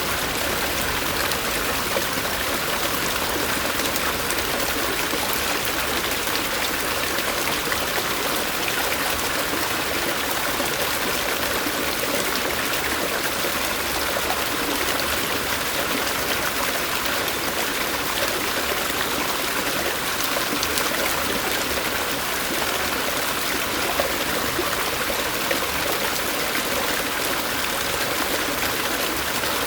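Stream water flowing steadily, an even, unbroken hiss of running water with no pauses or distinct events.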